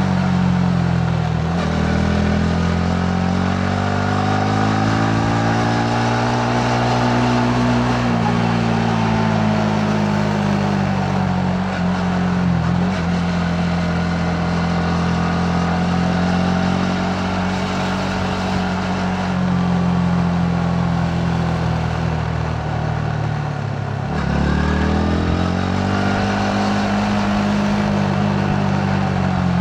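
Yamaha MT-15's single-cylinder engine running under way, its note rising and falling with the throttle. The pitch dips briefly about a second and a half in and again near the middle, then drops sharply about three quarters of the way through and climbs back.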